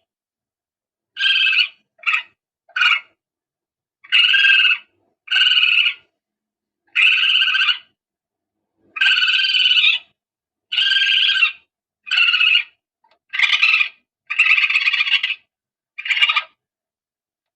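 Hunting lure call for palm civets: a recorded animal call, croaky and raspy, played as about a dozen short calls, each under a second, separated by silent gaps of irregular length.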